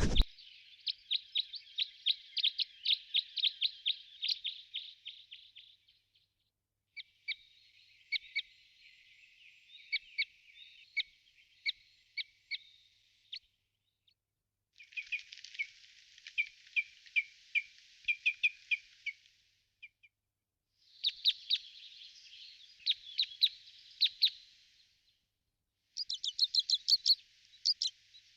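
A bird chirping in fast trains of short, high notes, several a second, in about five bouts of a few seconds each separated by short pauses.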